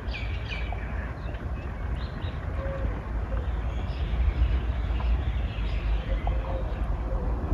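Outdoor ambience: small birds chirping, with short high calls scattered through, over a steady low rumble.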